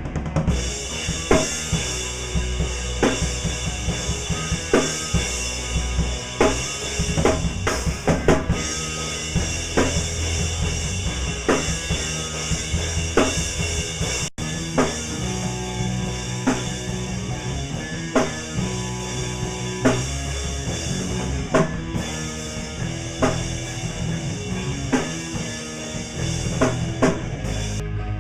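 Rock music: a drum kit with kick and snare hits in a steady beat under sustained chords, with a momentary dropout about halfway through.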